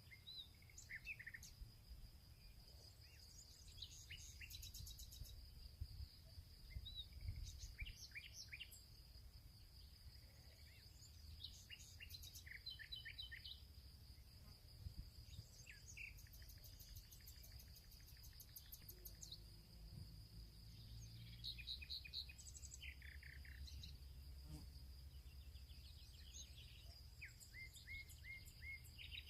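Faint field ambience: several songbirds chirping and trilling in short, scattered phrases over a steady high-pitched insect drone, with a low rumble underneath.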